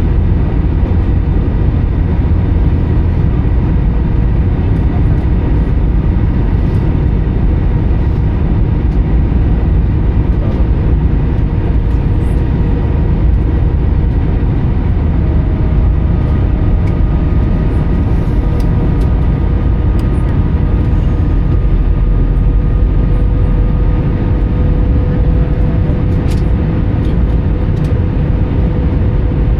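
Steady in-flight cabin noise of an Airbus A320: a loud, even rumble of airflow and the CFM56 engines, with faint steady engine tones running through it.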